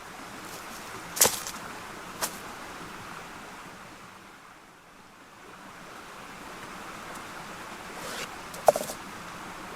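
Mountain stream flowing with a steady rushing, broken by a few sharp clicks, two early on and two close together near the end.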